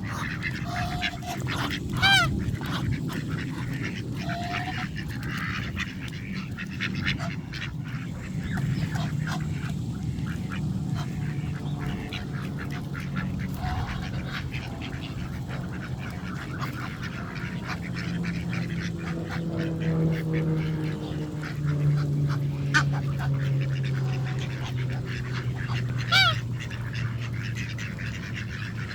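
A group of ducks, mallards among them, quacking and calling close by, with two loud calls standing out, one about two seconds in and one near the end. Many short clicks run through it, over a steady low hum.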